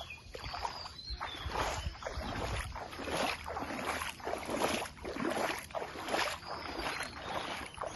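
Floodwater sloshing and swishing in a repeated rhythm, about one or two swishes a second, as if stirred by paddle strokes or wading.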